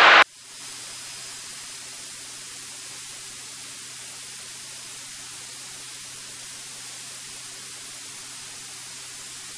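Steady static hiss from a cockpit headset/intercom audio feed, with a faint low hum underneath; it drops in sharply just after speech stops.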